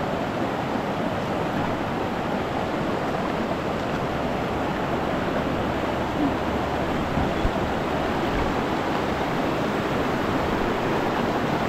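Rushing river water, a steady even roar of flowing water.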